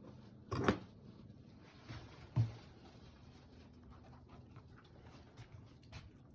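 Small handling and eating noises from a Shiba Inu working at a piece of sweet potato: a short sharp burst about half a second in, a dull thump a couple of seconds in, then faint scattered clicks.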